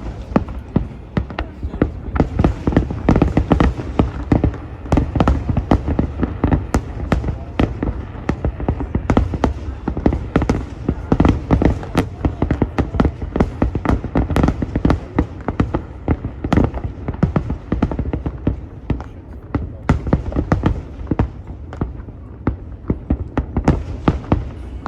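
Fireworks display in a dense, continuous barrage: booming shell bursts and sharp cracks following one another several times a second.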